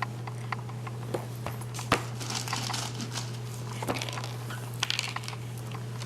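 Scattered light taps and crinkling from a baby handling puff snacks with her hands, over a steady low hum.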